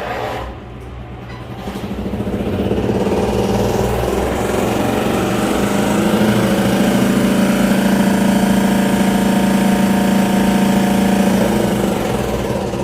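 Washing machine spin motor running: it builds up over the first few seconds into a steady hum, then dies down near the end.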